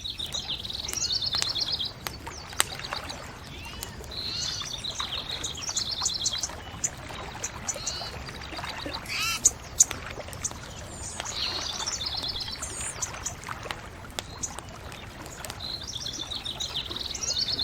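A songbird singing a short trilled phrase, repeated every four or five seconds, over a steady low rush of background noise, with a few sharp crackles from a bonfire, the loudest pair near the middle.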